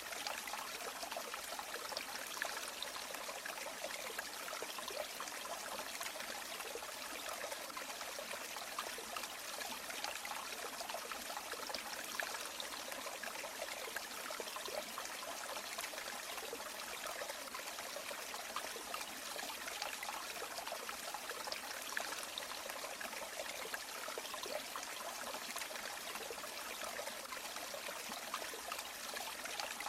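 River water flowing and trickling over stones, a steady splashing babble with no change.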